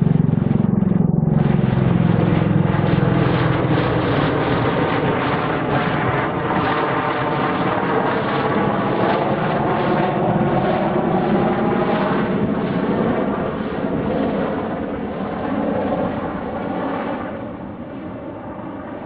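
Bell-Boeing CV-22B Osprey tiltrotor, its proprotors and twin turboshaft engines making a loud, continuous drone whose pitch falls slowly, fading over the last few seconds.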